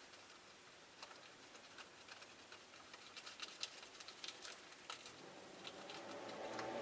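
Faint, scattered clicks and light taps from caged rosy-faced lovebirds moving about, with no calls. In the last couple of seconds a soft low rumbling sound rises.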